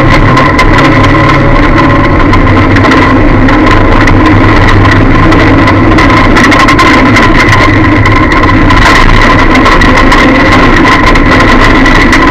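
Lada demolition-derby car's engine running while driving, heard from inside the cabin, very loud and distorted. The engine note drops slightly about two seconds in, under a steady high whine and rattling.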